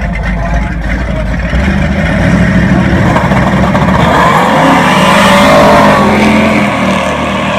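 Drag-built Cadillac Escalade's LS-based V8 rumbling at the starting line, then revving hard as it launches about four seconds in, its engine note rising in pitch and growing louder as the truck pulls away.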